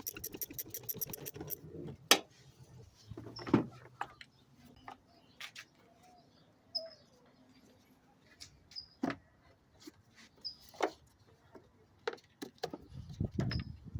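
Hand tools working on a car's air intake: a ratchet clicks rapidly for about a second and a half while loosening the intake hose clamp at the throttle body. Scattered knocks and clatter of tools and the plastic intake parts follow, with a rustling near the end. Faint bird chirps sound now and then.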